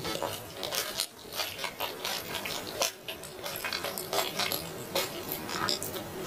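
A person chewing and eating grilled chicken close to the microphone: a dense run of short, irregular wet clicks and smacks, several a second.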